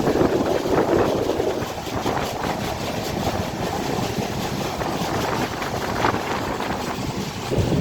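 Passenger train running along the track: a steady rumble of wheels on rail with faint repeated clicks, shifting in tone near the end.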